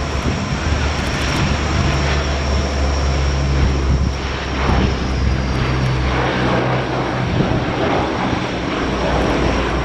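Lockheed P-3C Orion's four Allison T56 turboprop engines running loud: a deep propeller drone under a high turbine whine, the whine dipping slightly in pitch about four seconds in.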